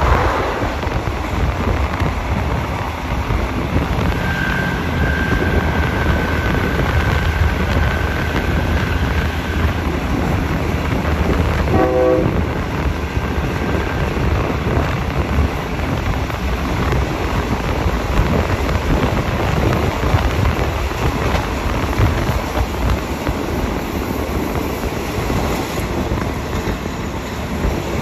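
Passenger train running along the line, heard through an open carriage window: a steady rumble of wheels on the rails with wind rushing past. A thin high tone holds for several seconds early on, and a brief horn toot sounds about twelve seconds in.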